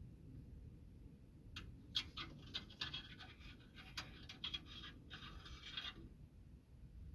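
Scratching and rasping with sharp little clicks as a furnace part is handled and worked on by hand. It starts about a second and a half in and stops about six seconds in.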